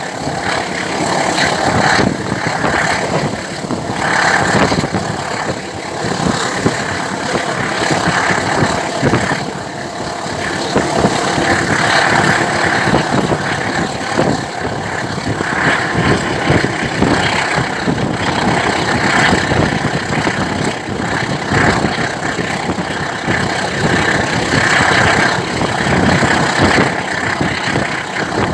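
A passenger train running at speed, heard from an open coach door: a steady rumble and rapid clatter of steel wheels on the rails, mixed with the rush of wind, its loudness rising and falling.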